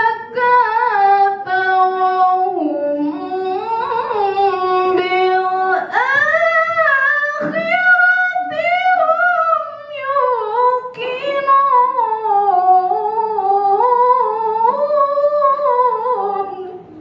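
A woman reciting the Quran in the melodic tilawah style, unaccompanied. She holds long notes and decorates them with wavering runs. The voice stops shortly before the end.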